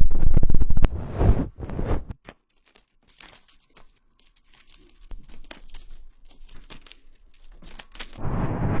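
Close-miked ASMR prop sounds on a binaural microphone: loud rough rustling for about two seconds, then lighter crisp crinkling and crackling, with the loud rustling returning near the end.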